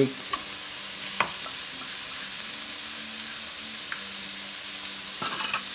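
Chopped onions sizzling steadily in hot oil in a pan, with a few light taps and clicks as chopped garlic goes in.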